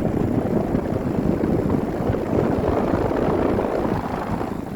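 1993 Arcoaire 1-ton round air-conditioner condensing unit with a rotary compressor running: a steady, loud rush of its condenser fan and compressor, which falls away near the end.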